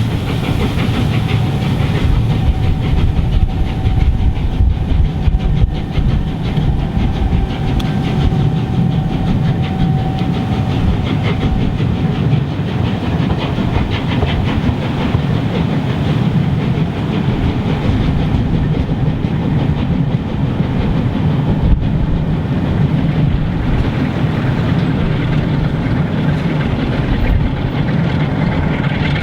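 Steam-hauled train running past, a steady rolling clatter of wheels on the track with heavy low rumble, from LMS Royal Scot class 4-6-0 No. 46100 and its coaches.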